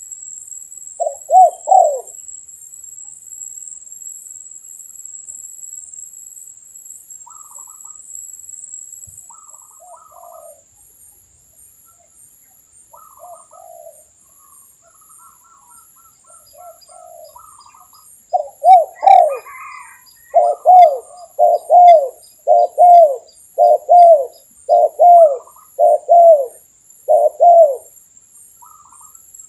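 Spotted doves cooing: a pair of loud coos about a second in, fainter calls through the middle, then a run of about nine loud coos at roughly one a second near the end. A steady high-pitched insect whine runs underneath.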